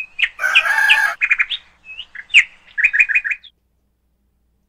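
Bird chirping and trilling in quick, high bursts, stopping about three and a half seconds in.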